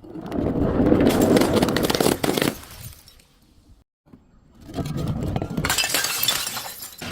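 Glass breaking and crunching: two long stretches of dense crackling and cracking, with a short pause between them.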